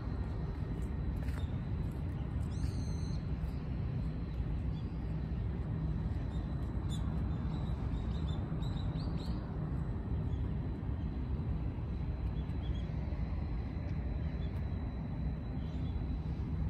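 Small birds chirping now and then: one clear call about three seconds in, then a run of short chirps around seven to nine seconds and a few more later. Under them runs a steady low rumble, which is the loudest sound throughout.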